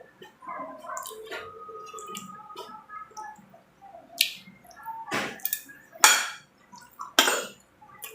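Close-up eating sounds: wet chewing and mouth smacks with light clinks of tableware, irregular throughout and with a few louder, sharp smacks in the second half.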